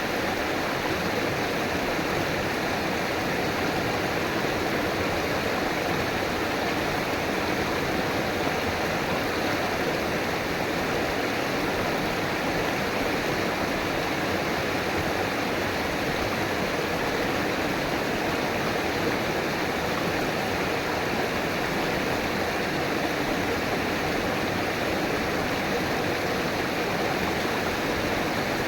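A river running, a steady rushing and babbling of flowing water.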